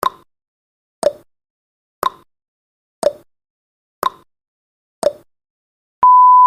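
Countdown timer sound effect ticking once a second, six clock ticks alternating high and low like a tick-tock, then a loud steady beep starts about six seconds in as the timer reaches zero.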